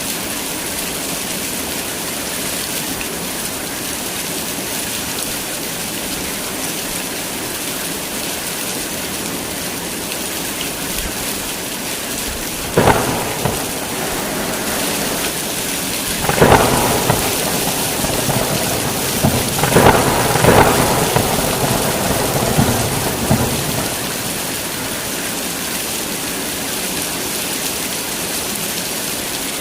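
Heavy rain falling steadily. About halfway through a sharp thunderclap breaks in, followed by several seconds of rolling thunder in repeated surges before the rain alone carries on.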